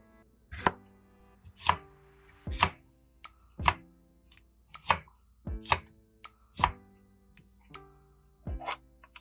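Kitchen knife chopping through vegetables onto a cutting board in single, sharp cuts, about one a second.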